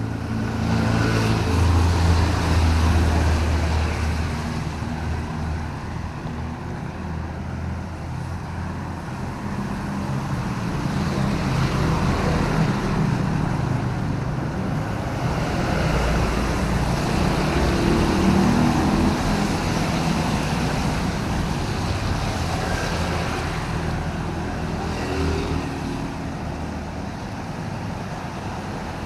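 Road traffic on wet city streets: vehicle engines humming low under a steady hiss of tyres on wet road, with vehicles passing loudest about two seconds in and again around twelve and eighteen seconds.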